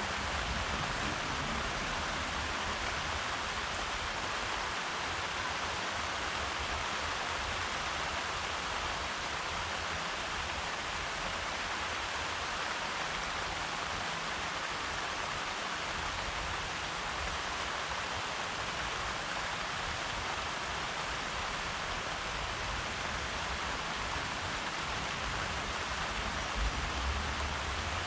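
Steady rain falling, an even hiss of many drops with no let-up, and a brief low thump near the end.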